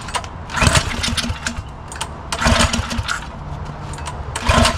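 Small single-cylinder mini bike engine being pull-started, three pulls of the recoil starter about two seconds apart.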